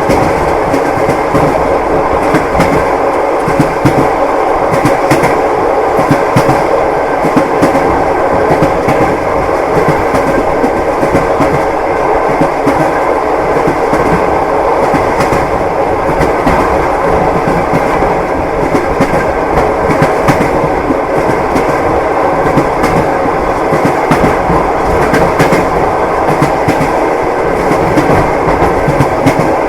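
A moving train's wheels clattering over the rails: a steady rumble with frequent short knocks from the wheels.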